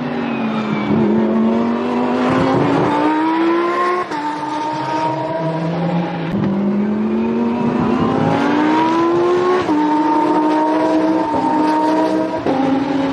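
Lamborghini Essenza SCV12's V12 engine accelerating hard. Its note climbs steadily and drops sharply at upshifts about four and ten seconds in, then holds nearly steady with two quick gear changes near the end.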